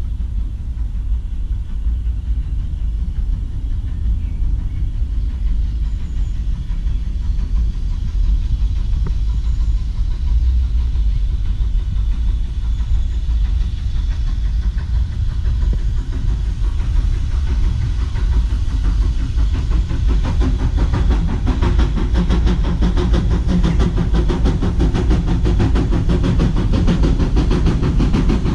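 A heritage railway train approaching along the line. Its rumble grows steadily louder and fuller over the second half.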